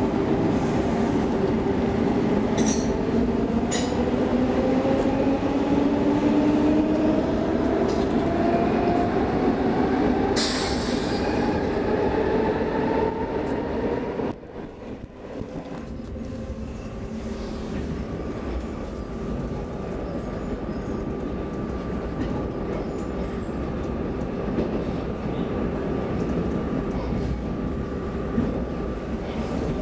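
X10 electric commuter train heard from inside the carriage, pulling away: its motor whine rises in pitch for about fourteen seconds, with a couple of clicks early on and a brief hiss about ten seconds in. Then the sound drops off suddenly and the train runs on with a steady hum.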